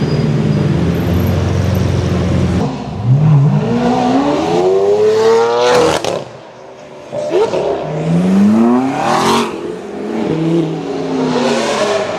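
Supercar engine revving hard: a steady running note, then a climb in pitch that cuts off sharply about halfway through. A brief lull follows, then a second rising rev and a falling note near the end.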